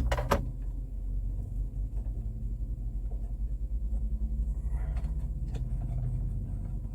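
Steady low rumble of an idling truck engine, with a couple of sharp knocks right at the start and a few light clicks of handling near the end.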